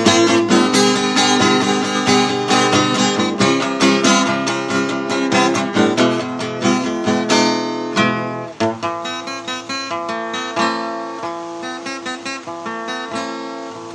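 Acoustic guitar strummed steadily with no singing, closing out a song. It breaks off briefly about eight seconds in, then goes on more softly and fades.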